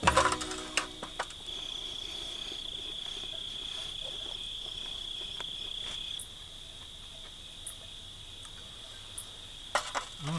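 Crickets trilling steadily as one continuous high-pitched chorus, louder for a few seconds in the middle.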